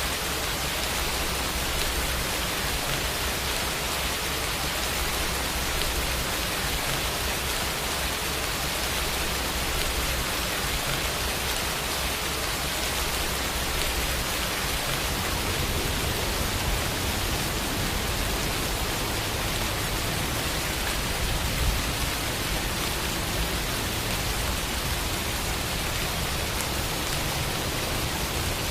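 Steady rain falling, an even hiss of many drops with no let-up. About three-quarters of the way through, one slightly louder drop or splash stands out.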